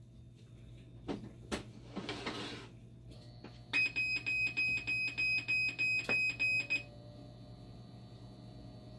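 A few clicks and a short hiss, then the dialysis machine's electronic beeper sounding a rapid run of high beeps, about three a second, for about three seconds before stopping.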